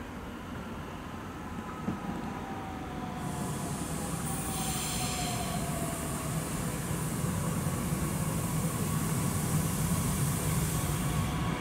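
Bombardier Talent 2 (class 1442) electric S-Bahn train approaching, growing steadily louder with a low rumble and a high hiss of wheels on rail. A thin whine glides down in pitch over a few seconds.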